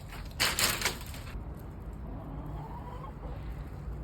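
Chickens clucking, with a loud noisy burst in the first second or so and a faint drawn-out call about halfway through.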